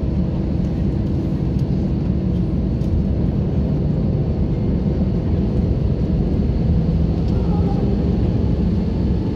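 Steady low rumble of an Airbus A321-200's engines and air systems, heard inside the passenger cabin as the airliner taxis after landing.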